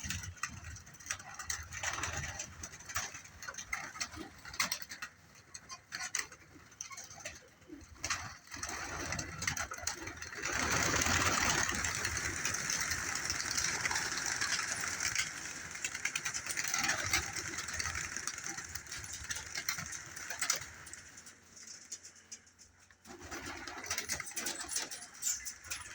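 Domestic pigeons cooing. About ten seconds in, a steady rushing noise comes in over them and stops near the end.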